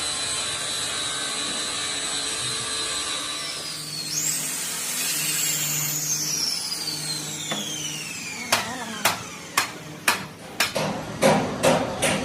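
A high-speed power tool runs with a steady high whine, then is switched off and winds down with a slowly falling pitch. Hammer blows follow, a few spaced knocks at first, then faster, louder strikes near the end.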